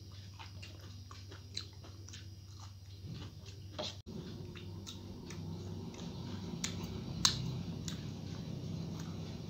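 Close-up eating sounds of rice and vegetables eaten by hand: chewing with scattered short wet clicks and smacks, the loudest about seven seconds in, over a steady low hum.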